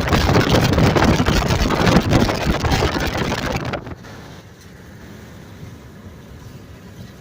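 Wind rushing over the microphone of a moving car, with road noise underneath. About four seconds in it cuts off abruptly, leaving a much quieter low rumble of the car driving.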